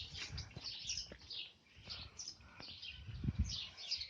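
Small birds chirping over and over, with low thuds and knocks from handling near the start and more strongly about three seconds in.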